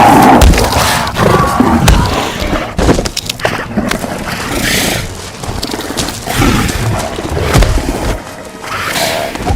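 Two bull seals fighting for a territory, giving throaty calls, with heavy thuds as their bodies slam together, about half a second, two seconds and seven and a half seconds in.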